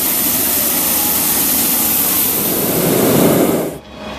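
Hot air balloon propane burner firing, a loud steady rushing blast that swells slightly and then cuts off suddenly near the end as the burner is shut off.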